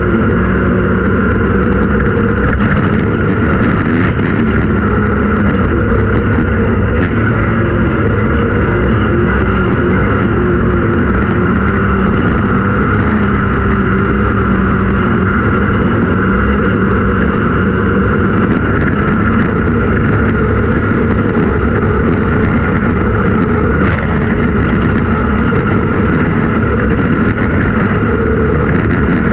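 An off-road race vehicle's engine running continuously at fairly steady revs, loud, with a constant hum and rushing noise.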